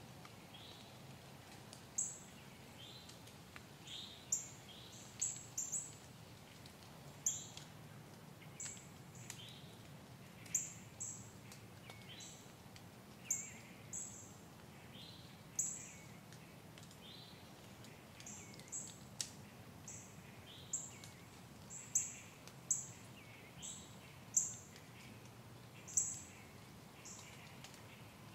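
Small woodland birds giving short, high chirps at irregular intervals, roughly one every second or two, over a faint steady low hum.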